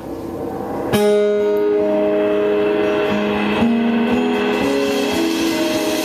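A live song intro on guitar, starting with a strummed chord about a second in, then held notes moving from pitch to pitch.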